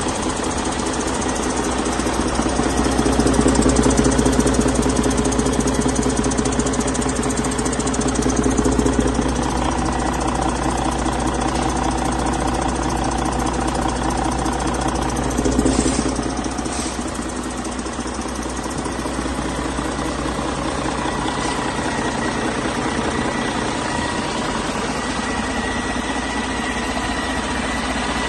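2014 Detroit DD15 14.8-litre inline-six diesel engine running on a test run. It runs louder for a few seconds shortly after the start and briefly again around the middle, then settles to a steady idle.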